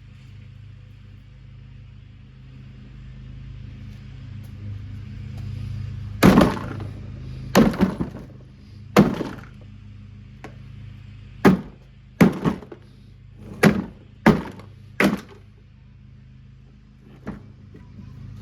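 A Kuppet portable washing machine being smashed: about eight heavy blows, roughly one a second, starting about a third of the way in, over a steady low hum.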